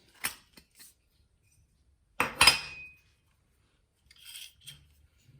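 Small metal parts and tools handled on a workbench: a few light clicks, then a louder metallic clatter about two seconds in with a short ring, and a few softer clinks near the end.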